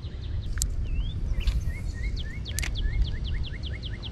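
A songbird singing a fast run of short repeated notes, about five a second, starting a little over a second in, over a steady low rumble.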